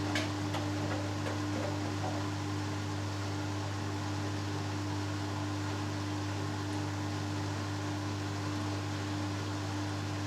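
Hoover Dynamic Next front-loading washing machine in its first interim spin, the drum turning at a steady speed with an even motor hum and whir. There is a single light click just after the start.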